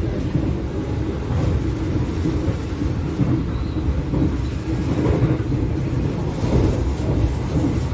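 Argo Cirebon passenger train running at speed, heard from inside the carriage: a steady low rumble of the wheels rolling on the track, with small uneven swells.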